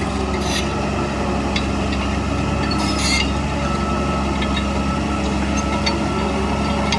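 Heavy diesel earthmoving machinery running steadily under load, with a couple of short metallic clanks.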